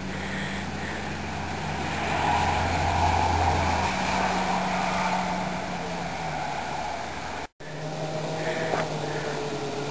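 A small engine running steadily with a low hum, louder for a couple of seconds near the start, then cut off abruptly about three quarters of the way through and resuming.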